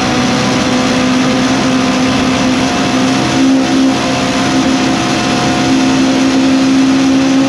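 Lotus Cortina race car's twin-cam four-cylinder engine heard from inside the cabin, running loud at high, nearly steady revs, with a brief wobble in pitch about three and a half seconds in.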